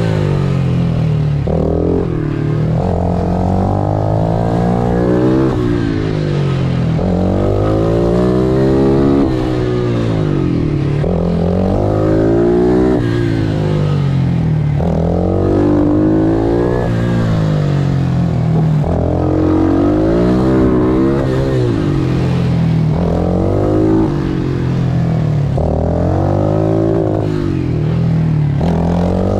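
Pit bike's small single-cylinder engine revving hard under racing throttle, its pitch climbing and dropping every couple of seconds as the rider accelerates, shifts and brakes for corners.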